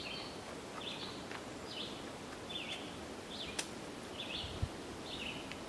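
A bird repeating a short, high chirp about every half second, each note slightly different in shape. A sharp click comes a little past halfway, with a soft thump about a second later.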